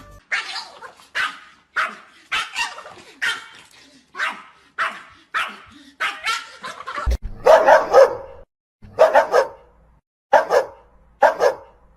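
A dog barking over and over in short sharp barks, about two a second at first; about seven seconds in the barks turn louder and lower and come about once a second.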